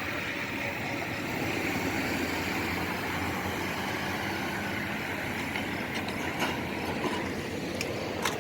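Diesel freight locomotives working under power as a train moves off, a steady engine noise with a few light clicks.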